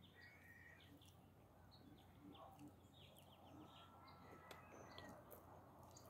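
Several wild birds chirping and calling faintly in woodland, with short scattered notes and a quick run of descending notes about three seconds in.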